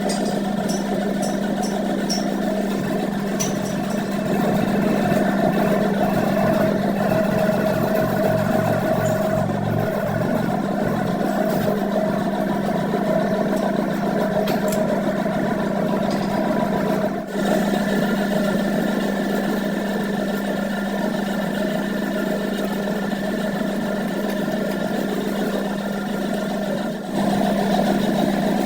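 A motor-driven workshop machine running steadily with a constant hum, briefly dropping out twice in the second half.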